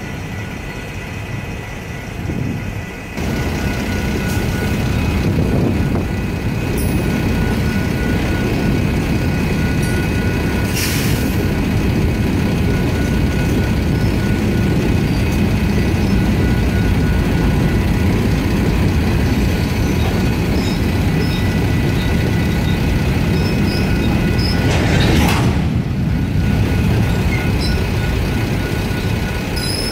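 Freight cars, autoracks and covered hoppers, rolling through a grade crossing with a continuous low rumble of wheels on rail. Over it the crossing's electronic warning bells ring steadily.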